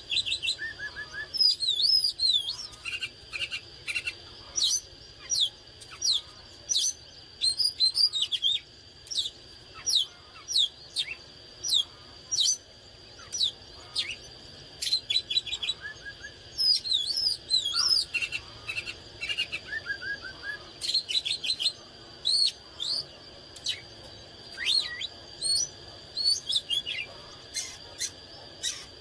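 Oriental magpie-robin singing a fast, varied song of short whistles, chirps and sweeping notes in quick phrases, with a steady high tone underneath.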